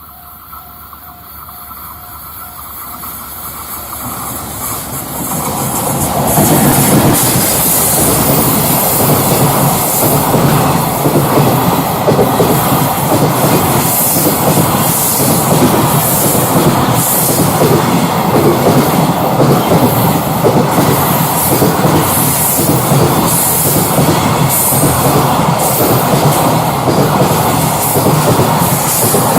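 Freight train approaching, growing louder over about six seconds, then its container wagons run past with a steady rumble and the rhythmic clatter of wheels over rail joints.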